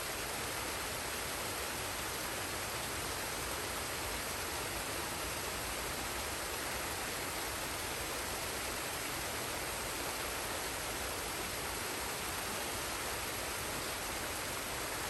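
Forest waterfall and stream: a steady, even rush of falling water.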